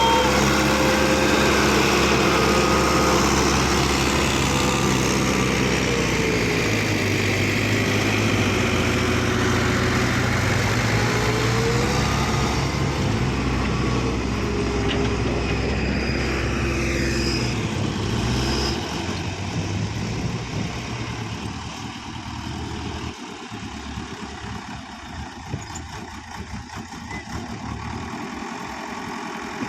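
Diesel tractor engine working under load, its pitch rising and falling as the revs change. About two-thirds through it drops away to a quieter, lower run.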